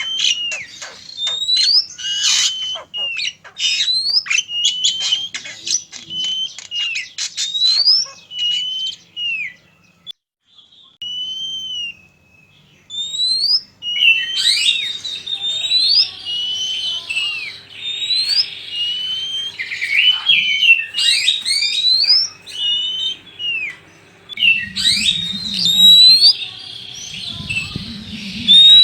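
Oriental magpie-robins singing: loud whistled notes that sweep up and down, with fast harsh chattering in the first several seconds. The song breaks off for a few seconds near the middle and then resumes.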